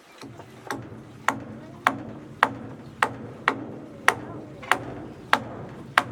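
Hammer blows on wood, evenly paced at a little under two a second, typical of nailing down floor planks. A steady low hum runs underneath.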